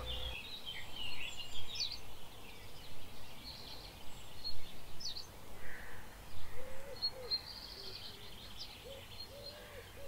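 Birds singing in spring: several small birds chirping and trilling at once in short, scattered phrases, with lower, repeated curved calls in the second half.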